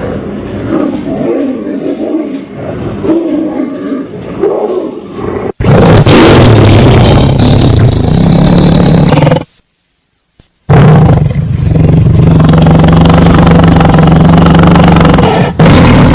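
Tiger growling for about five seconds, then, after a sudden cut, much louder and harsher tiger roaring that fills the sound. It drops to a second of silence about ten seconds in, then starts again.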